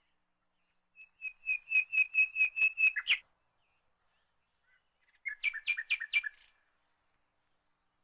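A bird chirping: a quick run of about eight high chirps, then a shorter run of about five a couple of seconds later.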